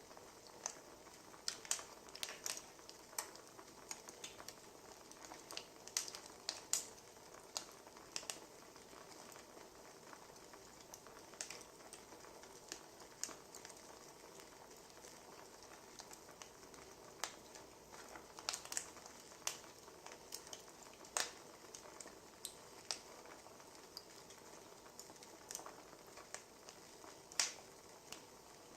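Wood fire burning, crackling with irregular sharp pops over a soft steady hiss.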